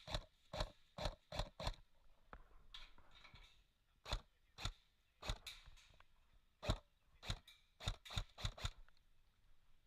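Airsoft guns firing single shots: sharp snaps in quick irregular runs, about fifteen in all, with a short rustle about three seconds in.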